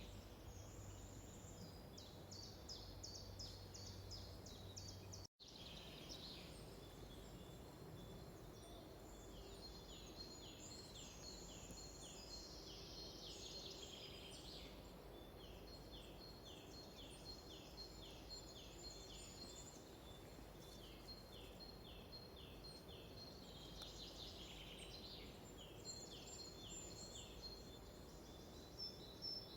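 Faint birdsong: songbirds singing series of short, high chirps repeated about twice a second, with other birds calling over a soft background hiss. The sound drops out for an instant about five seconds in.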